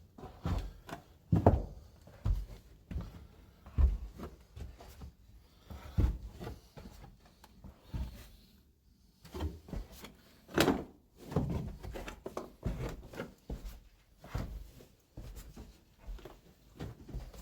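Irregular knocks and thumps on wood, a dozen or more, a few of them clearly louder, with the hollow sound of a small room.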